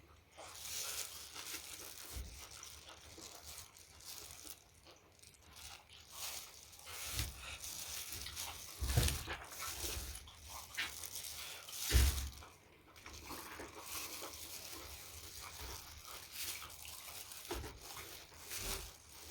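Close-miked eating sounds: wet chewing and crunching with many small clicks and crackles, and two louder knocks about nine and twelve seconds in.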